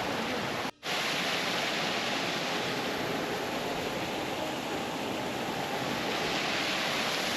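Steady rushing of a moorland stream and waterfall tumbling over rocks, with a brief break about a second in where the sound cuts out and comes back.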